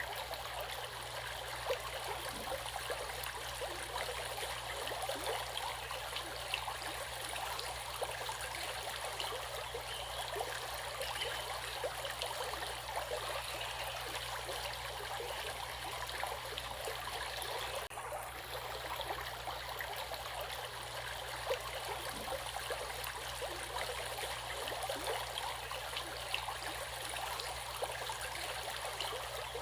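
Water of a stream flowing and babbling steadily over rocks, an even rush with many small splashes.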